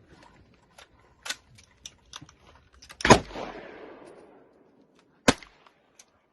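Gunshots: several quieter shots or clicks, then a loud shot about three seconds in that echoes for about a second, and another sharp shot about five seconds in.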